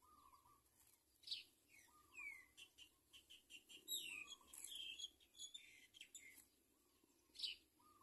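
Birds chirping: a busy run of short, sharp chirps and quick downward-sliding calls that is densest through the middle, with a softer, lower call repeated a few times underneath.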